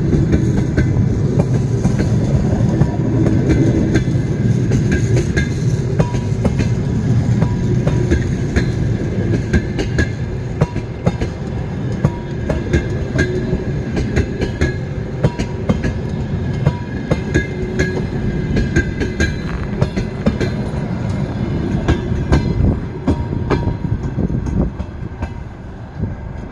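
Train rolling past with a steady rumble and a constant rattle of wheel clicks over the rail joints. The sound eases off over the last few seconds.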